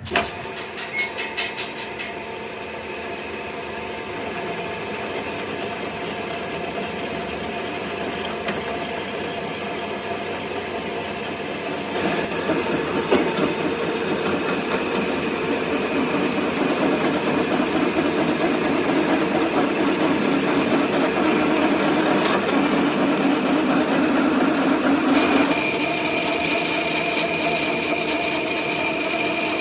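A motor-driven workshop machine starts up and runs steadily with a fast, even whirring rattle. It grows louder about twelve seconds in and changes tone about twenty-five seconds in.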